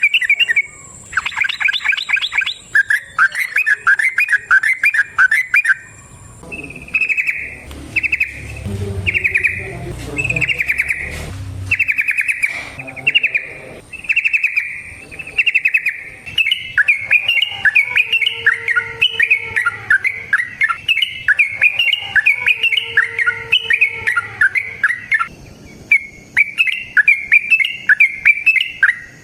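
Yellow-vented bulbul (trucukan) singing, a long run of quick chattering phrases repeated one after another with short breaks.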